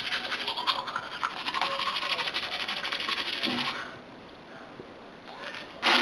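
A toothbrush scrubbing teeth in quick back-and-forth strokes, which stop about four seconds in. A sudden louder sound starts right at the end.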